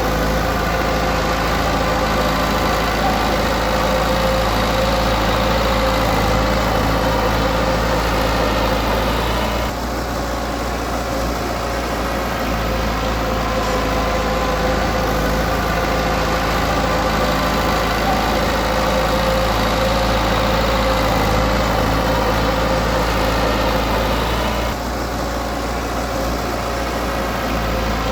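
Diesel engine of a Komatsu D20P bulldozer running steadily. Its note dips briefly about ten seconds in, and again for a few seconds near the end.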